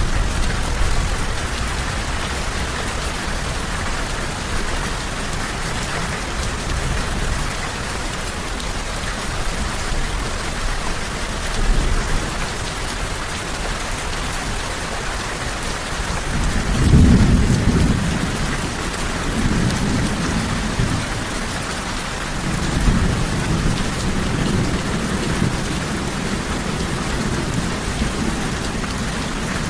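Steady heavy rain with rolling thunder: a low rumble swells just past the middle and further lower rumbles follow near the end.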